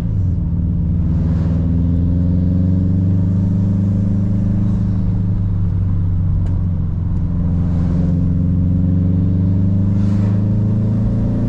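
Car engine pulling at fairly constant revs, with a steady low drone that rises and falls slightly in pitch a few times.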